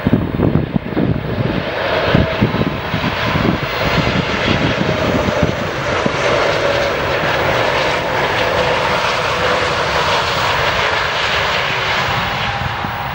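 Airliner passing close by, its engine noise loud and steady, with a whine that slowly falls in pitch as it goes past. Wind buffets the microphone in the first couple of seconds.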